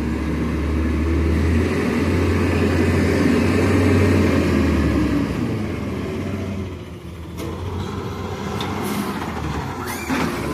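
Recycling truck's diesel engine running close by, heaviest in the first half, then easing off, with a few sharp clanks in the last few seconds.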